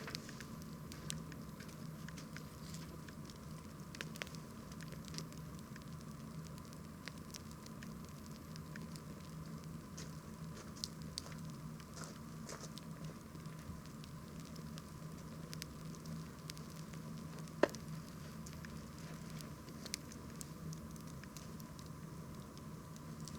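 Wood campfire burning: a steady low rush of flame with scattered sharp crackles and pops from the burning wood, one louder pop about eighteen seconds in.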